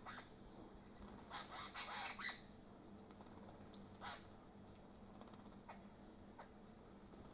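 A small bird bathing in shallow water, flicking and splashing: a quick flurry of splashes about a second and a half in, then single splashes now and then.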